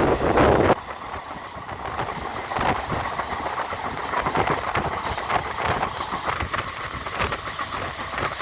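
Passenger train running along the line, heard from on board: a steady rolling rumble with frequent rattles and clicks, louder for the first second.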